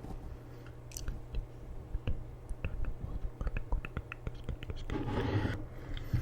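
Soft close-miked ASMR clicks and ticks, a scatter of small sharp sounds, followed by a short breathy whisper-like hiss about five seconds in.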